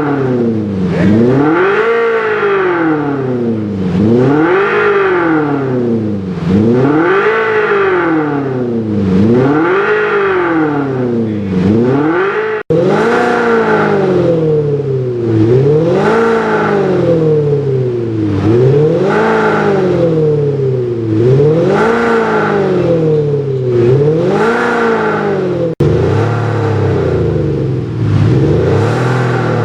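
Jaguar XE diesel revved over and over, its exhaust note boosted by an active sound system. The pitch climbs and falls back about every two seconds, a dozen or so times.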